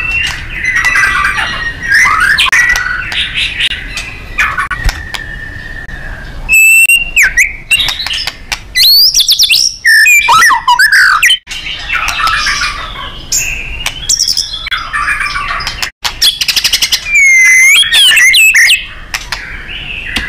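White-rumped shama singing a loud, varied song of whistled notes and pitch glides, fast runs of rapidly repeated notes, and harsh buzzy passages, broken into phrases by short pauses.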